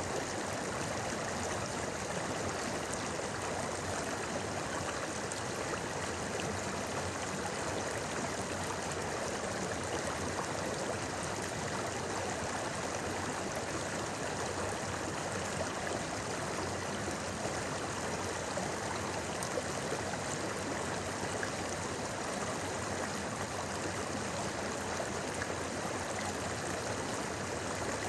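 River water flowing over rocks: a steady, even babbling of a shallow stream.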